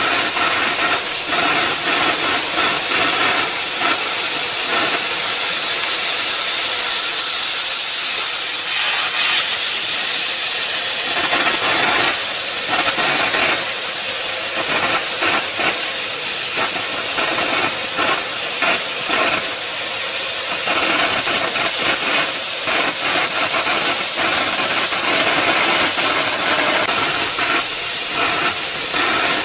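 Steady, loud hiss of the oxy-fuel cutting torch on a Huawei CG1-30 portable flame-cutting carriage, the gas jet burning through steel.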